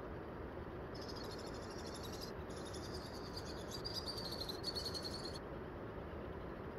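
A small bird's rapid, high-pitched trill, starting about a second in and running for roughly four seconds, slightly falling in pitch near its end, over a steady background hiss.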